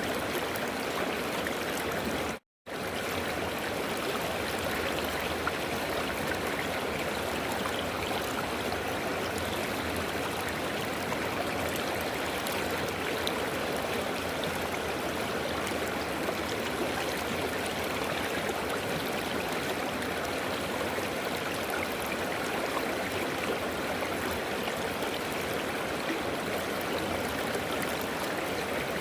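River water flowing over rocks with a steady rushing and gurgling, cutting out completely for a split second about two and a half seconds in.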